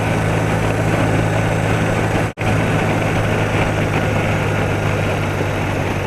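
BMW R80RT's air-cooled boxer twin engine running at a steady speed, with wind rushing over the camera microphone. The sound cuts out for an instant a little over two seconds in.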